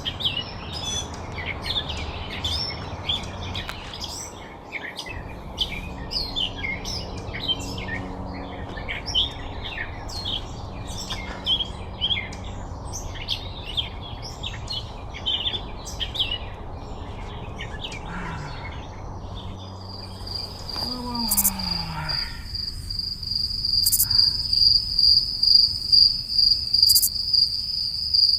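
Many small birds chirping and singing over a low, steady rumble. About 21 seconds in it switches abruptly to a loud, steady, high-pitched cricket trill.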